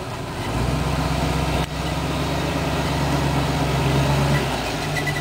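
Monster truck's engine running steadily at a low pitch, coming in about half a second in.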